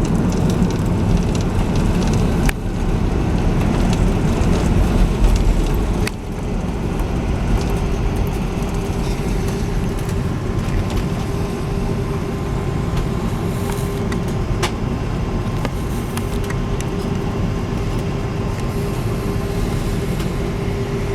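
Airbus A330-300's cabin noise during the landing rollout: a heavy roar of engines and runway that drops sharply about six seconds in, with a click, then settles into a steadier, quieter rumble with a faint hum as the airliner slows. There is another click about two and a half seconds in.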